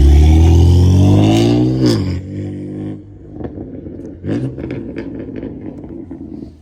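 A car engine revved hard, its pitch climbing steadily for about two seconds before dropping off, followed by a string of short, sharp pops as it settles.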